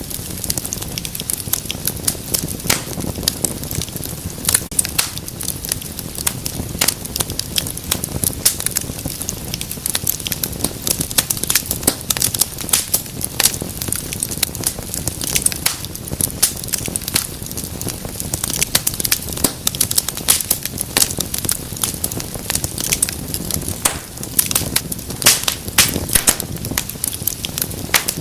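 Wood fire in a fireplace crackling: dense, irregular sharp pops and snaps over a low steady rumble of the flames.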